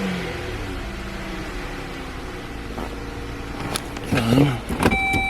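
A 2013 Dodge Journey's 3.6-litre Pentastar V6 running steadily with a faint chatter, a couple of sharp clicks near the end. The chatter is the sign of a cracked flywheel flex plate flexing between engine and transmission.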